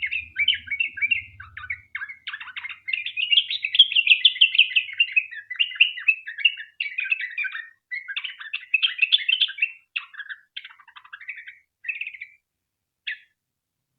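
Yellow-vented bulbul singing a long, rapid run of chattering, bubbling notes with no pauses, the 'ropel panjang' song used as a lure to make other bulbuls sing. The song breaks off near the end, with one short last note.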